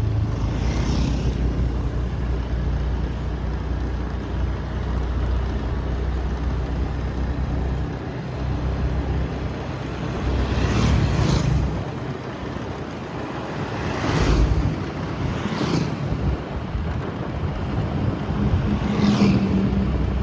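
Motorbike engine running steadily while riding, with wind rushing over the microphone. Several brief whooshes swell and fade: about a second in, twice between 10 and 12 seconds, and again around 14, 16 and 19 seconds.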